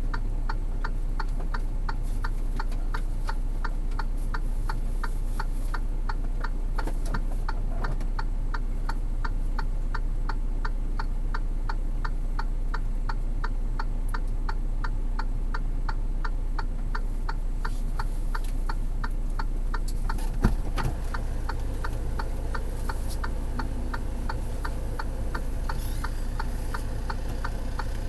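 Vehicle flasher relay clicking steadily, about three clicks a second, as with hazard lights left on in a stopped truck, over a steady low hum. A single knock about twenty seconds in.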